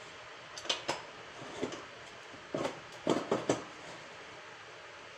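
Metal clinks and knocks of a breaker bar and socket working the blade nut loose on the underside of a Lawn-Boy push mower. There are half a dozen short, separate knocks, most of them between about half a second and three and a half seconds in.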